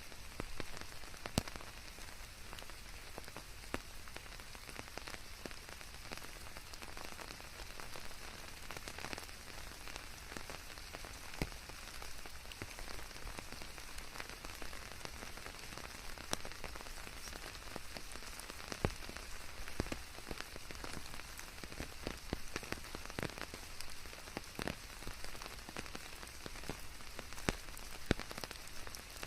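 Steady rain falling, an even hiss with many distinct drops ticking sharply on a surface.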